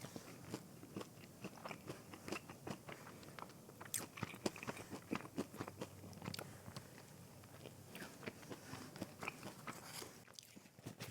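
A person biting and chewing breaded fried mozzarella sticks close to the microphone: a run of small, irregular crunchy clicks.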